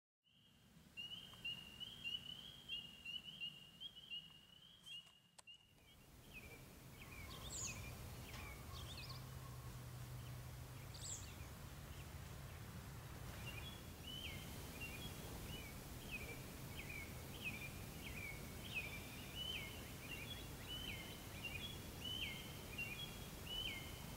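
Songbirds singing in a quiet field: a quick run of repeated chirps, a few scattered calls, then another long series of repeated chirps, over a faint steady outdoor hiss.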